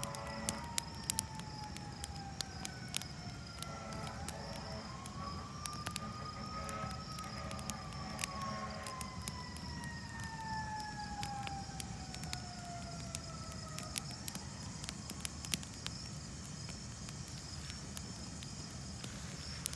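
A distant emergency-vehicle siren wailing slowly, its pitch falling, then rising about four seconds in, then sliding down again until about fourteen seconds in, and starting to rise once more. Under it a campfire crackles with frequent sharp pops.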